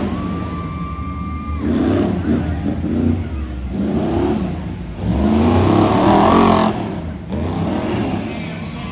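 Monster truck engine revving hard in repeated rising and falling bursts, the loudest about five to seven seconds in.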